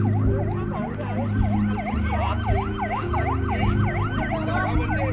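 Emergency vehicle sirens in a fast yelp, the pitch swooping up and down about three times a second, with two sirens overlapping. Under them runs a steady low engine hum.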